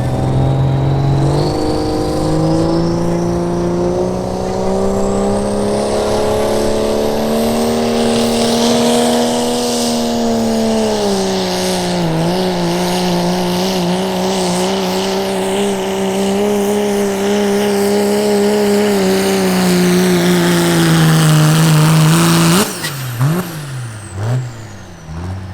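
Diesel pickup truck engine at full throttle on a truck pull, held at high revs for about twenty seconds with a high whistle rising early on. Near the end the throttle cuts off suddenly, followed by a few quick revs.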